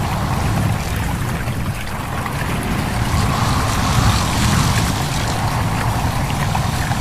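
A stream babbling and trickling, with a steady low rush of wind under it.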